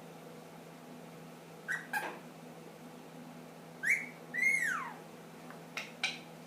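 Indian ringneck parakeet whistling and calling: a pair of short sharp notes about two seconds in, then a rising whistle and a long whistle that arches up and slides down near the middle, and two more quick sharp notes near the end. A steady low hum runs underneath.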